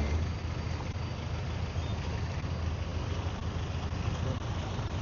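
Steady low rumble of road traffic, with an even wash of street noise over it.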